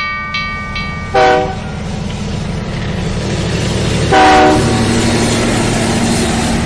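Train running with a steady low rumble and clatter, sounding two short horn toots, about a second and about four seconds in.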